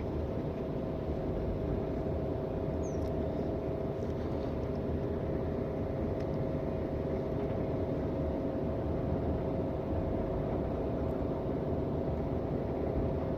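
A steady, even mechanical drone like a motor running, with a constant hum and no change in pitch or level.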